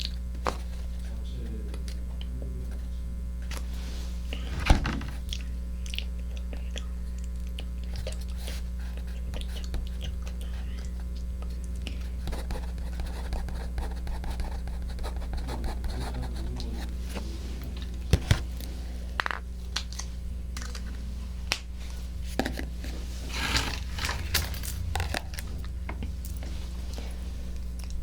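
Close-up ASMR trigger sounds at a 3Dio binaural microphone: scattered soft clicks, crackles and scraping, with a sharp click about five seconds in, two more around eighteen seconds and a cluster of crackles later on, over a steady low electrical hum.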